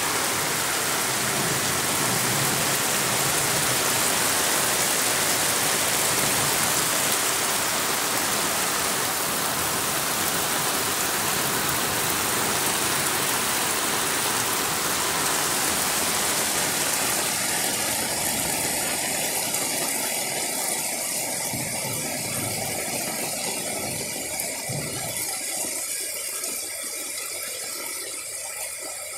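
Heavy rain falling and floodwater running across a street: a steady, dense hiss that thins and quietens over the last ten seconds or so.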